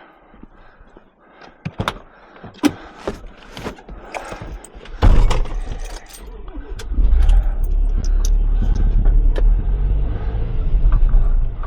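Keys and small knocks and clicks, then a sudden loud thud about five seconds in, followed by a truck engine running steadily from about seven seconds on.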